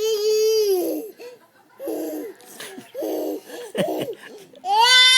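One-year-old baby shouting in high, drawn-out squeals: a long one at the start that drops in pitch as it ends, a few short squeals and babbles in the middle, and another long held squeal near the end.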